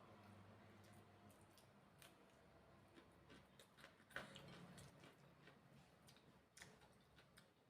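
Near silence with faint eating sounds: scattered small clicks and mouth noises from someone eating chicken feet, with one slightly louder click about four seconds in.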